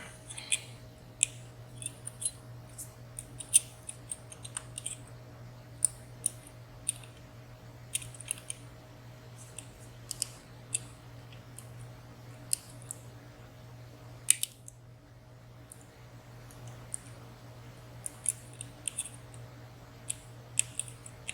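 Lock pick working inside a WSW W10 high-security padlock: irregular light metallic clicks and ticks, a few in quick pairs, as the pick lifts and probes the pins. A steady low electrical hum runs underneath.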